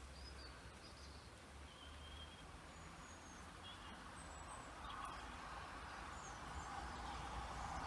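Faint birds chirping in short, high calls, with the distant sound of an approaching Network Rail HST (Class 43 power cars) growing steadily louder from about five seconds in.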